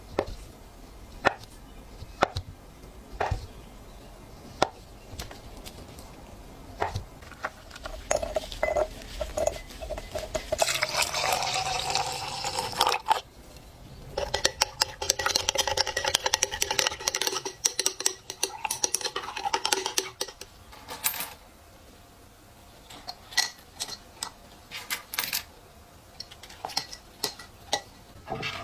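Old metal coins clinking against a hard dish or pan, first as separate clinks, then in two long stretches of continuous rattling and scraping around the middle, as though stirred or scrubbed in the container. Separate clinks follow near the end.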